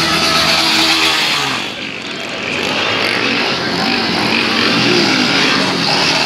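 Motorcycle engine revving hard and continuously, with a brief dip in level about two seconds in before it climbs again.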